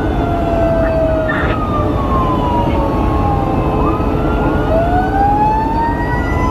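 Fire engine sirens wailing in slow rising and falling sweeps, more than one overlapping at different pitches, over loud engine and road rumble.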